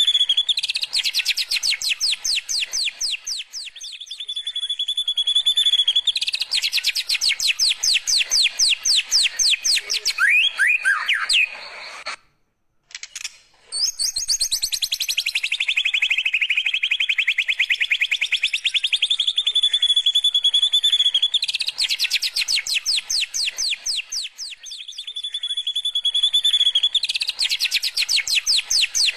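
White-rumped shama singing in a canary-like style: long, very fast trills of sharp repeated notes alternating with held, steady whistled notes. The song breaks off briefly about twelve seconds in, then resumes with a falling trill.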